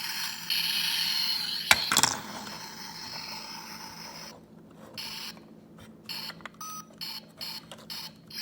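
A toy's small built-in speaker playing a tinny electronic sound effect, with two sharp clicks about two seconds in. After about four seconds it breaks into short, irregular crackly bursts.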